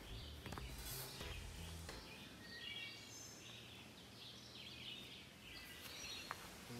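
Faint birdsong: short chirping phrases from several birds, repeated over a quiet woodland background. Soft footsteps on grass come in the first couple of seconds.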